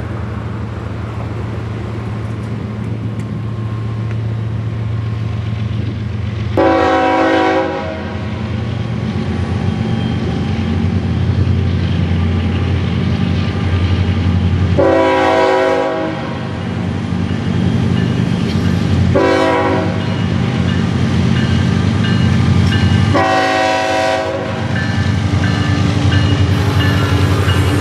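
Diesel locomotives running light, their engines humming steadily, sound a multi-chime air horn in the grade-crossing pattern: long, long, short, long.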